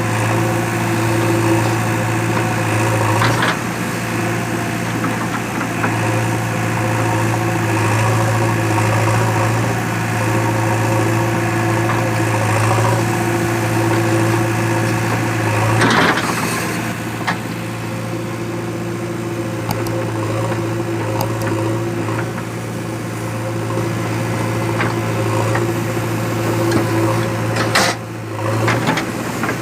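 Diesel engine of heavy earthmoving machinery running steadily at a low, even speed. A few sharp knocks or clunks cut across it: one a few seconds in, a louder one about halfway, and one near the end.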